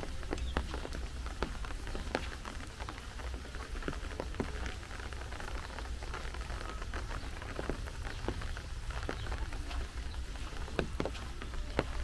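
Rain falling steadily, with irregular sharp taps of individual drops landing close by, over a low rumble.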